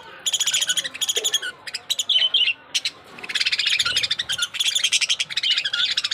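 Budgerigars chirping and chattering in rapid trains of short high notes, with a brief lull about three seconds in.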